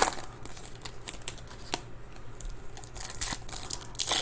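Trading-card pack wrappers crinkling and tearing in short, scattered bursts as packs are ripped open and handled, with a few sharp clicks.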